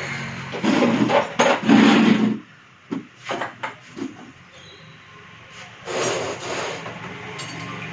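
Knocking and clattering of hard objects being handled, with a quick run of sharp taps about three seconds in.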